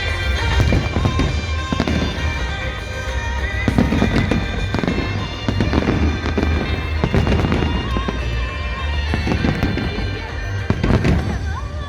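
Fireworks bursting in a continuous run of bangs and crackles, over music with held notes.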